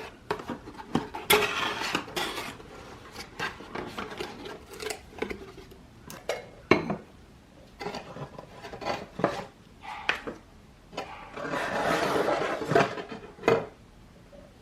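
An IKEA lamp being unpacked from its box by hand: a string of knocks and clinks as the parts are handled, with two longer stretches of packaging noise, about a second in and again near the end.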